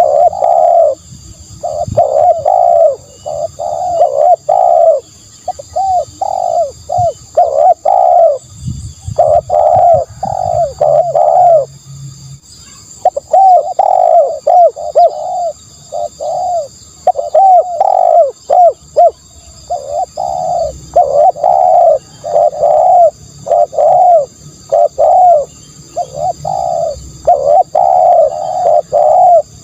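Spotted dove cooing: short coo notes repeated in quick runs, over and over with brief gaps between runs.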